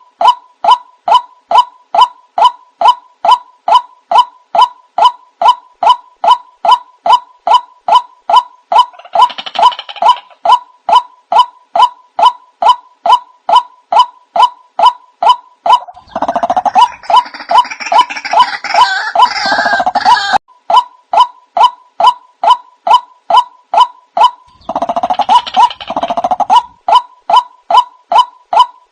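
White-breasted waterhen (ruak-ruak) lure call, a monotonous call repeated about twice a second. Three times a rougher, denser stretch of calling joins in, the longest lasting about four seconds past the middle.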